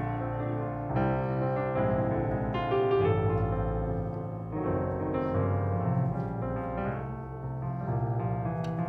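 Keyboard playing sustained chords with a bass line, a slow gospel pad between songs.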